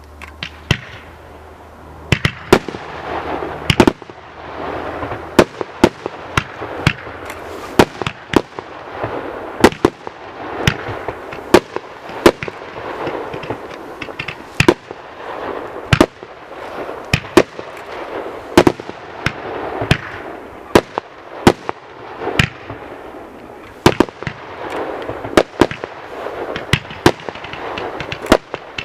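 WECO 'Ocean Storm' firework going off: a quick, irregular series of sharp bangs, about one or two a second, over a continuous hissing, crackling wash that swells and fades between them.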